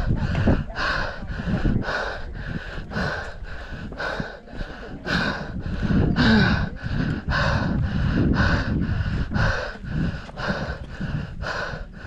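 A runner breathing hard and rhythmically from exertion on a steep uphill trail run, about two breaths a second. Under it there is a low rumble of wind on the microphone.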